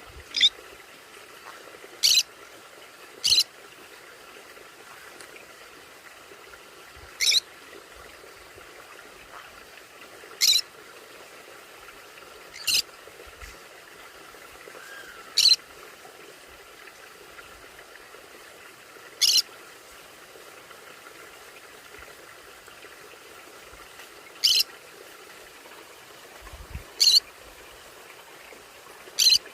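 Conure giving short, sharp, high-pitched squawks, about eleven single calls a few seconds apart at irregular intervals, over a faint steady hiss.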